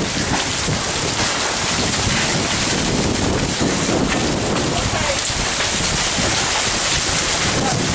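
Heavy rain falling, a steady loud hiss, over uneven low rumbling.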